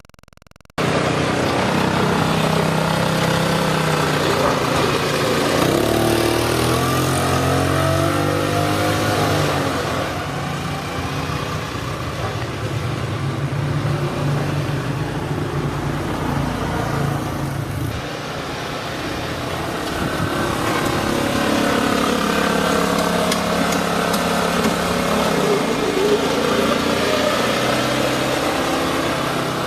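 Motor vehicle engine running and revving, its pitch rising and falling in two stretches; it cuts in abruptly about a second in.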